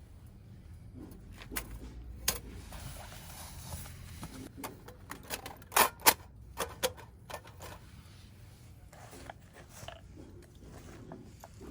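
Wood fire crackling, with irregular sharp pops and a brief cluster of louder cracks about halfway through.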